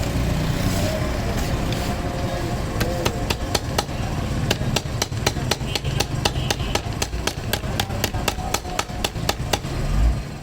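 A hammer tapping rapidly and evenly, about four to five light blows a second, starting about three seconds in, over a steady low rumble.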